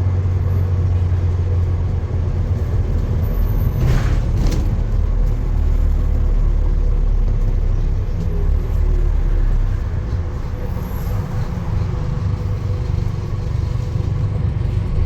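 Steady low rumble of a running motor vehicle, with a brief sharper noise about four seconds in.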